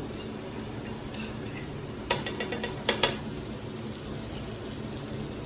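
A metal utensil clinking and scraping against a cooking pan as food is scooped and transferred into another dish. A few sharp clinks come about two and three seconds in, the last the loudest.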